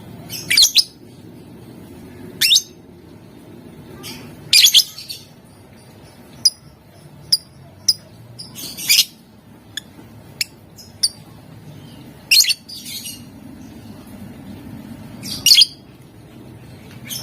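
Lovebird giving short, shrill, high-pitched chirps and squawks, singly or in quick pairs, about a dozen at irregular intervals of one to three seconds.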